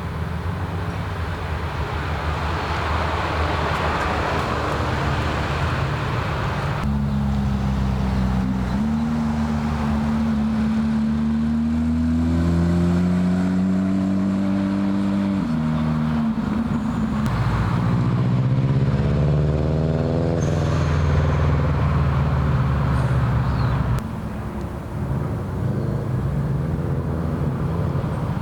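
A car engine accelerating hard as it pulls away. Its pitch climbs, drops sharply at a gear change about halfway through, then climbs again.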